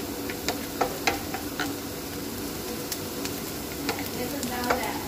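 Chopped onion and garlic sizzling in hot oil in a stainless steel pan while being stirred with a wooden spoon, with a scattering of sharp clicks and taps.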